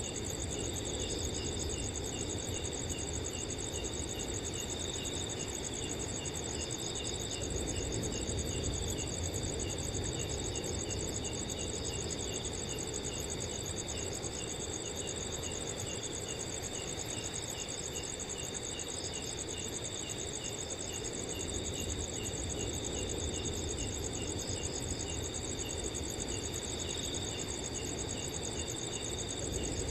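Crickets chirping steadily in several overlapping high trills, with a low rush of wind that swells and eases beneath them.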